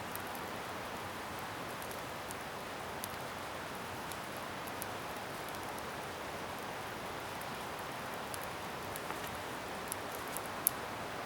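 Scrap-wood bonfire burning with a steady hiss and scattered crackles and pops, one sharper pop about ten and a half seconds in.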